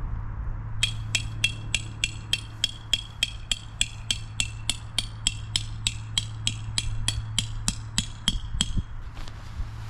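A hammer striking metal in even, rapid blows, about three a second for some eight seconds, each with a short bright ring.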